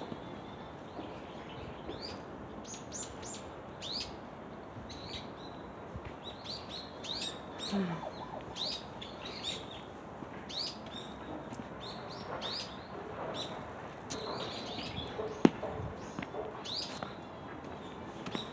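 Small birds chirping: short, high calls repeated every second or so over a steady background noise, with one sharp click about fifteen seconds in.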